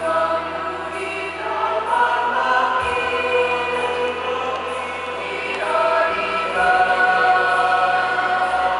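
High school choir singing held chords in several voice parts, moving to new notes about one and a half seconds in and again a little past five seconds.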